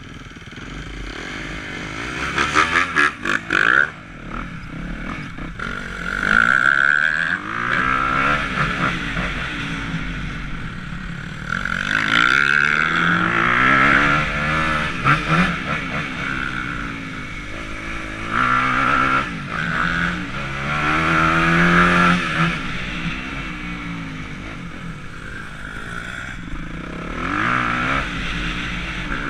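Motocross dirt bike engine revving hard and easing off again and again as it rides the track, its pitch climbing and dropping through the gears.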